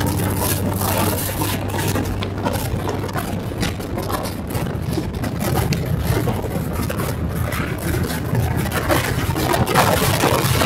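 Harley-Davidson Road King's V-twin engine running with a low rumble, under a steady noisy rush.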